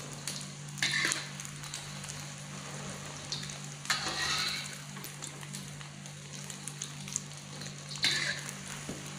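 Beaten egg sizzling in oil in a wok, with a metal spatula scraping the pan in three short bursts: about a second in, about four seconds in and near the end. A steady low hum runs underneath.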